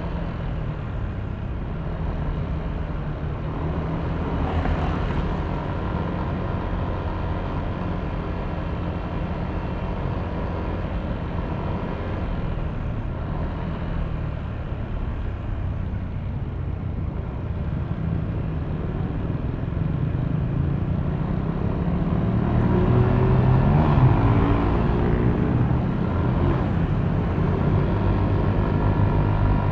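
Yamaha Aerox V3 scooter's 155 cc single-cylinder engine running on the move, with road and traffic noise. There is a brief whoosh about five seconds in, and the sound gets louder, with the engine note rising and falling, about three-quarters of the way through.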